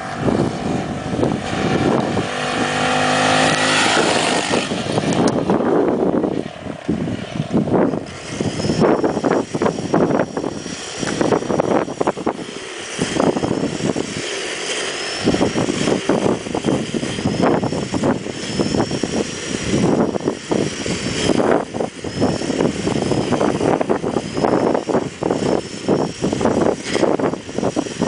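X18 Superbike's small engine revving, its pitch climbing for a couple of seconds near the start, then running on under dense rushing and buffeting noise.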